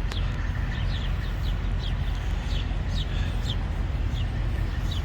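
Small birds chirping: a string of short, quick, downward-sliding chirps, heard over a steady low rumble.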